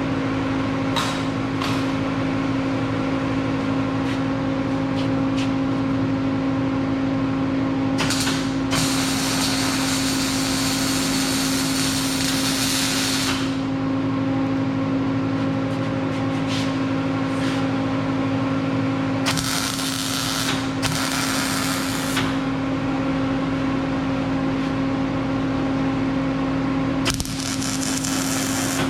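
Arc welding tacking wheel mounts onto a steel frame: crackling runs of the arc over a steady machine hum. The longest run starts about eight seconds in and lasts about five seconds, two shorter ones follow just after the middle, and one comes near the end.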